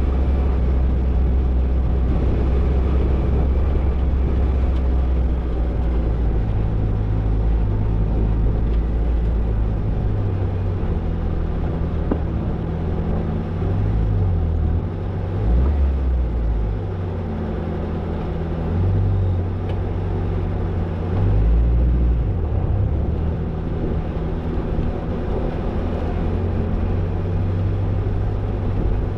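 Toyota Tercel 4WD wagon driving a dirt trail, its engine's low drone shifting up and down in pitch with the throttle every few seconds.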